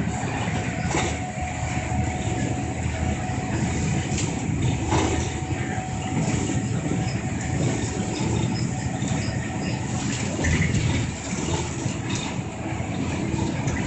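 Cabin of a moving city route bus: steady engine and road rumble, with a few sharp knocks and rattles from the bodywork.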